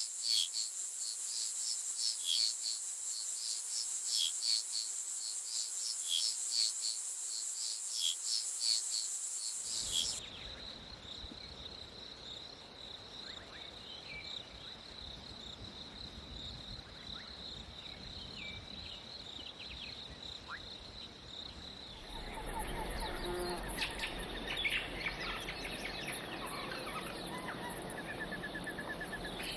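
Insect chorus: a steady high buzzing with rapid pulsing that cuts off abruptly about a third of the way in. It gives way to a single quieter, steady high insect tone with a few bird chirps. Near the end, a fuller mix of insects and bird calls takes over.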